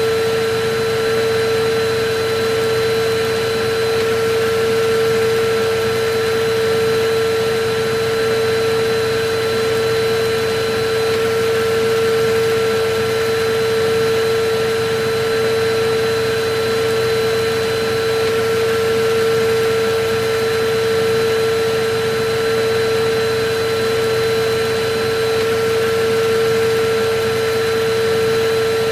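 Electric vacuum cleaner running steadily: an even rushing noise with a constant mid-pitched motor whine that never changes.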